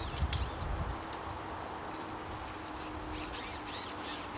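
Rubbing and knocking handling noise from a fishing pole being shipped out by hand, loudest in the first second.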